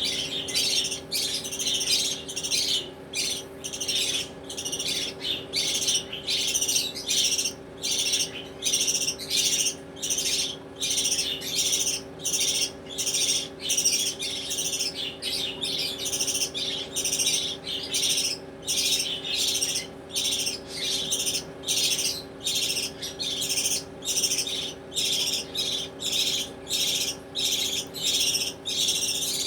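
Baby budgerigars calling: a steady run of short, raspy squawks, a little under two a second.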